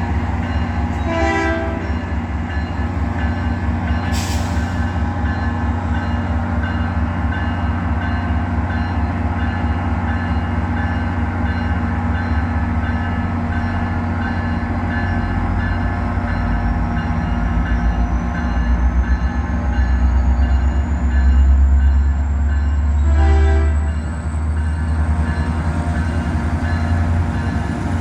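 Caltrain train running with a steady, many-toned drone over a pulsing low rumble that grows louder about twenty seconds in. Two brief tones sound, about a second in and again near the end, and a faint high whine slowly rises through the second half.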